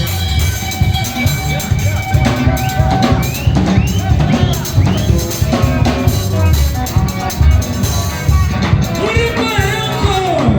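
A live band playing, led by a drum kit with bass drum and snare driving a steady beat under sustained melodic instrument lines.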